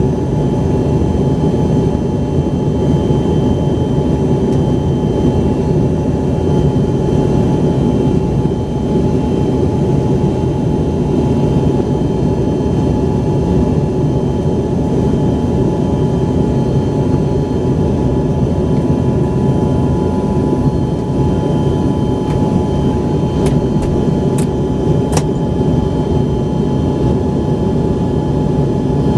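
Embraer ERJ-135's rear-mounted Rolls-Royce AE3007 turbofans heard steadily from inside the cabin: a loud, even rumble with steady high whine tones above it. A few brief clicks near the end.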